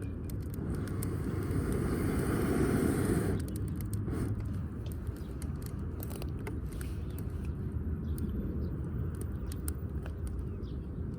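Wood fire of damp firewood in a wood grill, crackling with scattered pops over a steady low rumble; a rushing hiss runs for the first three seconds or so, then drops away.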